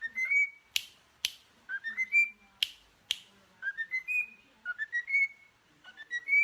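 Whistling in short rising phrases, each a run of quick clear notes climbing in pitch, about five phrases in all. Four sharp clicks fall between the phrases in the first half.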